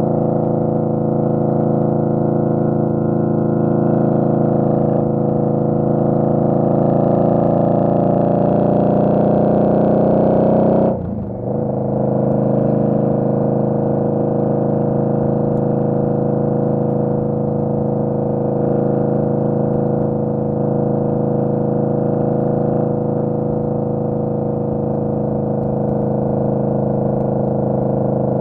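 Indian Scout Bobber's V-twin engine running under way. Its pitch climbs steadily for several seconds, drops abruptly about eleven seconds in as on a gear change, then holds at a steady lower pitch.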